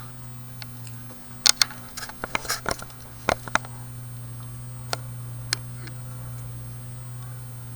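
Hampton Bay Tahiti Breeze ceiling fan running on high speed, its motor giving a steady hum. A cluster of sharp clicks and ticks comes in the first few seconds, with two more single clicks later.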